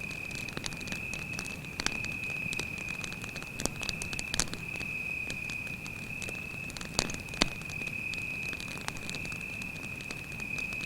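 Campfire crackling, with irregular snaps and a few louder pops, over a steady high-pitched cricket trill that runs unbroken.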